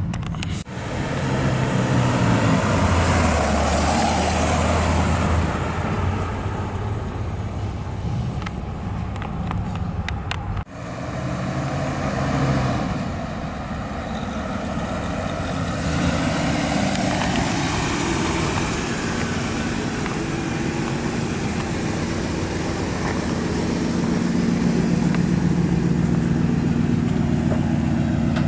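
1964 Pontiac Catalina Safari wagon's original 389 cubic-inch V8 running as the car is driven, rising and falling in pitch, with two abrupt breaks, about half a second in and about ten seconds in.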